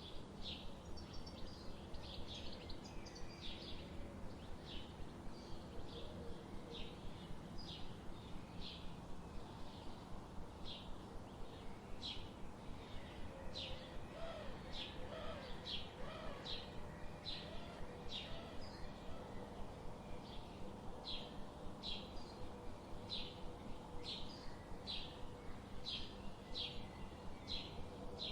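Forest ambience: a bird repeats a short, high chirp over and over, a bit more than once a second, over a steady background hiss, with a few fainter, lower bird calls in between.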